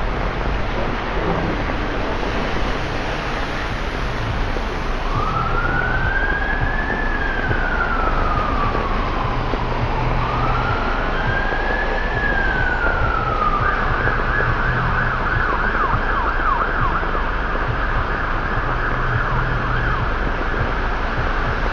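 Emergency vehicle siren over a steady hiss of traffic on a wet road. About five seconds in it starts with two slow rising-and-falling wails, then switches to a fast yelp that runs on to the end.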